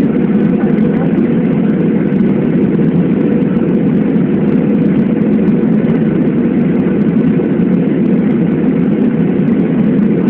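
Steady airliner cabin noise: jet engines and rushing air heard from inside the passenger cabin during the landing.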